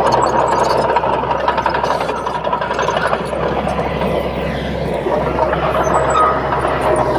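Komatsu D31P bulldozer's diesel engine running steadily, with the clatter of its tracks and a faint whine that drops lower in pitch about five seconds in.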